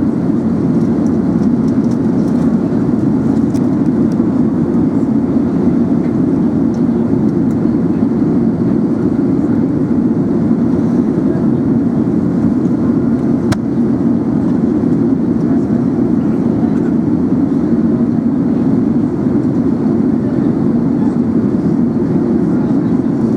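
Steady cabin noise of an Airbus A380 airliner in flight: an even, unbroken low rush, with one faint click about thirteen seconds in.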